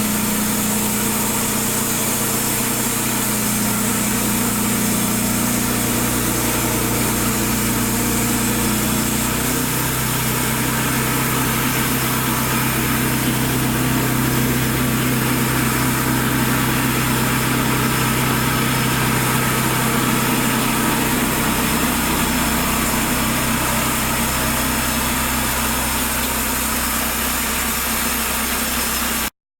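Petrol engine of a Taiga T-1B band sawmill running steadily. Its pitch drops about a third of the way in and shifts again about two-thirds in. The sound cuts off abruptly just before the end.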